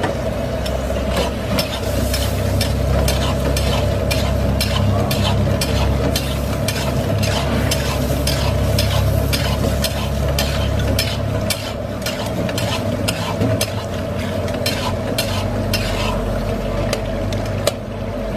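Spatula scraping and stirring mutton pieces as they sizzle in hot oil in a karahi, with repeated scraping strokes about two or three a second over a steady low rumble. This is the bhuna stage: the meat frying in oil once its cooking water has boiled off.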